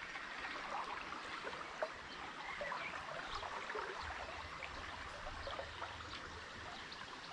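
Steady flow of river water running.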